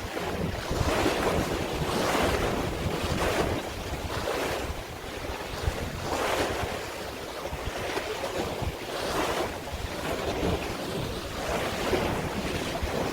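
Waves washing with wind buffeting the microphone, the water noise swelling and easing in irregular surges every one to three seconds.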